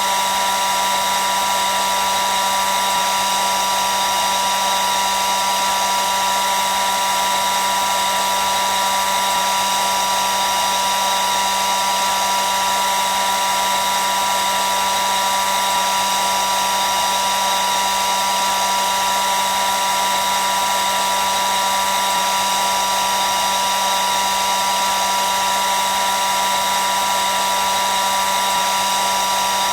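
Hair dryer running steadily: an even rushing of air with a constant motor whine, the strongest tone a high hum near the middle of the range.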